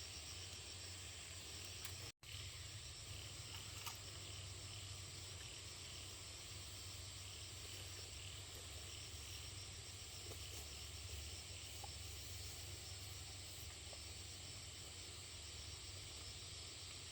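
Insects chirring steadily, with a repeating pulse in the high register, over a low steady rumble. The sound cuts out completely for an instant about two seconds in.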